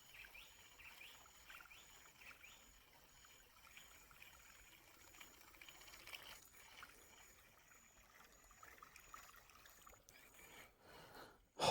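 Near silence: faint outdoor evening ambience, with an insect calling in short high pulses at an even beat, a little more than once a second.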